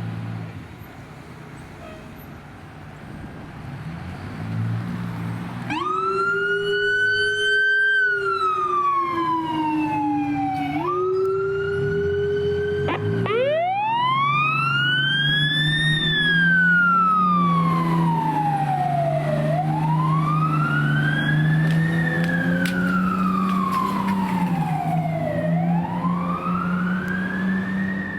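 Fire apparatus siren starting up about six seconds in, rising and falling briefly a couple of times, then settling into a slow wail that climbs and drops about every six seconds, over the steady drone of the vehicle's engine.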